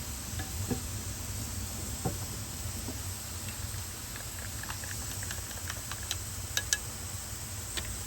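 Wood fire crackling, with scattered sharp pops that come more often in the second half, over a steady low rumble and hiss.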